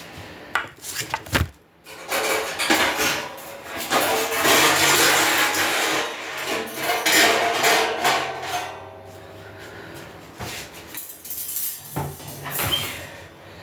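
Grill parts and packaging being handled during assembly: rustling and scraping with knocks and clatters, loudest in a long stretch through the middle.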